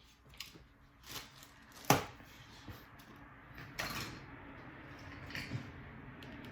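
Hands handling small drone parts and tools on a work surface during an SG907 drone repair: a few scattered clicks and knocks, the sharpest about two seconds in and a longer one just before four seconds.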